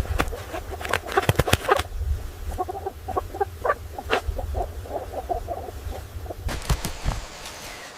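Chickens clucking in many short, quick calls, over a low rumble that cuts off about six and a half seconds in.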